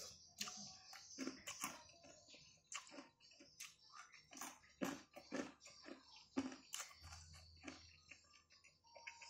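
A person chewing crunchy fried food close to the microphone, with a string of irregular crisp crunches and mouth sounds.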